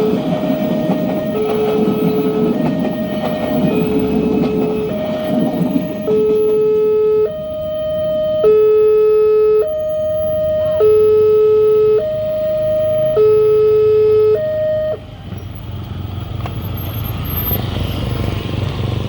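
Railway level-crossing alarm sounding a two-tone ding-dong, a higher and a lower tone alternating about every second, over the fading rumble of a passing train. The alarm cuts off about 15 seconds in, and a low rumble of road vehicle engines rises after it.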